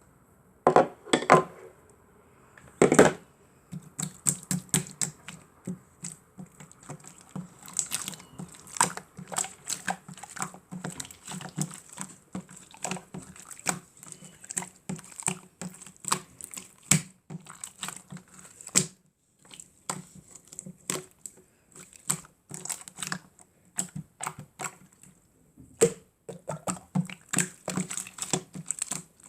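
Slime being squished and poked by hand, making a dense, irregular run of small wet clicks and pops, with a few louder squelches near the start.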